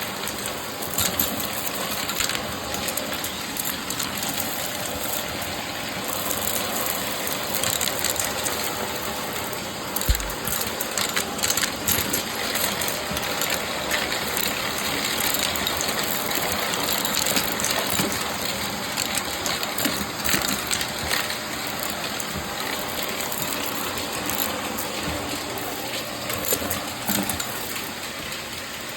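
Shark vacuum cleaner running steadily while picking up crunchy debris, with a constant rush of many small crackles and clicks as bits rattle up the nozzle. One sharper, louder click comes about ten seconds in.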